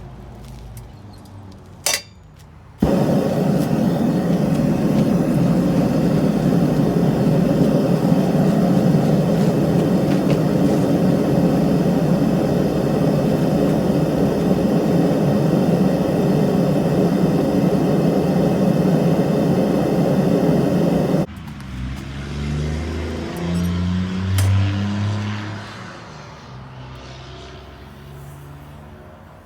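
A loud, steady machine noise starts suddenly about three seconds in and cuts off abruptly about twenty-one seconds in, followed by fainter low rumbling.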